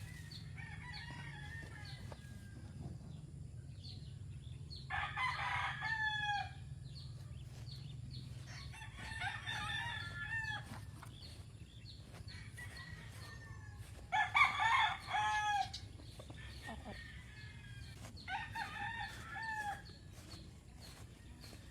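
Roosters crowing one after another, about four crows spaced a few seconds apart, the loudest a little past halfway, over a steady low background hum.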